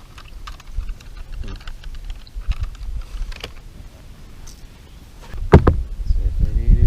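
Light clicks and knocks of handling, then a loud thump about five and a half seconds in, followed by low rumbling and a rising pitched sound near the end.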